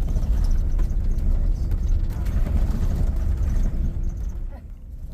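A moving road vehicle heard from inside: a heavy low rumble with a steady hum over it. It eases off briefly near the end.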